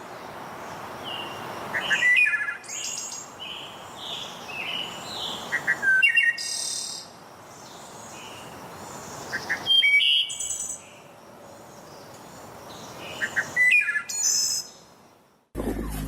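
Birdsong: short bursts of chirps and whistled notes, a phrase repeated about every four seconds over a faint steady hiss.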